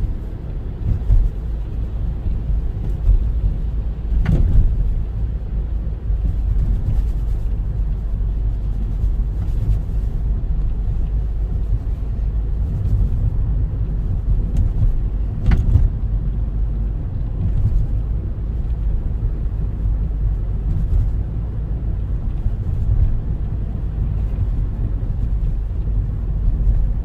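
Steady low rumble of road and engine noise inside a moving car's cabin, with two brief sharp knocks, about four seconds in and again about fifteen seconds in.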